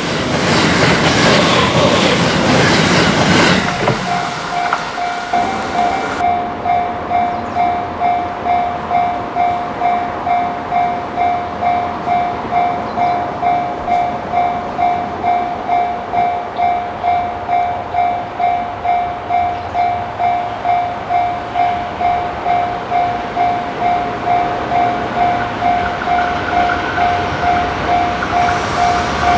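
A limited-express electric train passing close at speed. Then a steady electronic warning bell of a level crossing rings, about two dings a second, while another limited-express electric train approaches, its running noise growing near the end.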